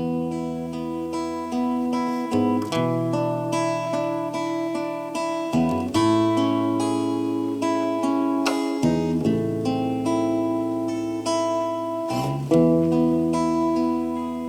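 Acoustic guitar playing the introduction of a ballad: picked, ringing chords with single notes over them, the chord changing every few seconds.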